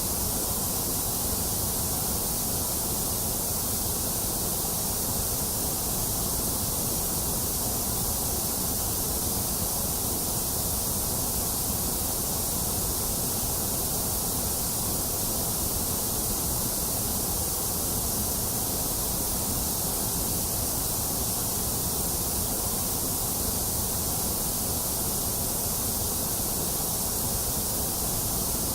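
Steady white noise: an even, unchanging hiss with no distinct events.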